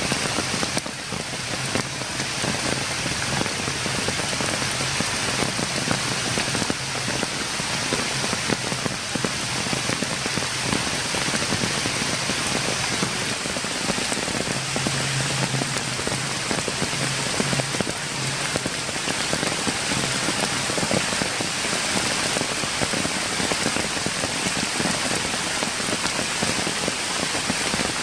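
Steady rain falling on wet ground, grass and stones.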